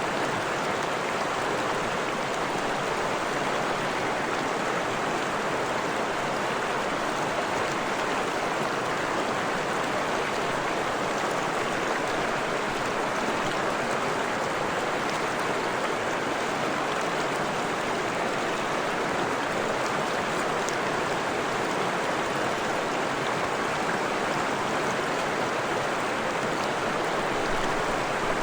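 Freshwater stream running steadily, a constant rush and babble of water with no change in level.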